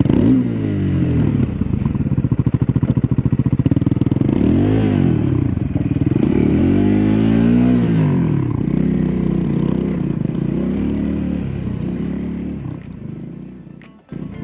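Triumph Scrambler 400X's single-cylinder engine through its stock exhaust, revved up and down repeatedly under off-road riding. The engine sound fades away over the last couple of seconds and drops out abruptly just before the end.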